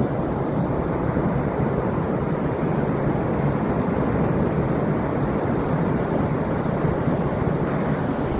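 Steady wind buffeting the microphone, mixed with the low rush of ocean surf.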